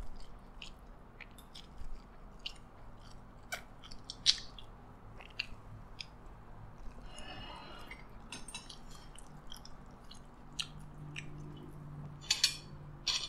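Close-miked chewing of a mouthful of egg fried rice, with short, irregular wet mouth clicks and smacks. Near the end come a few sharper clicks as a metal spoon is picked up from a ceramic plate.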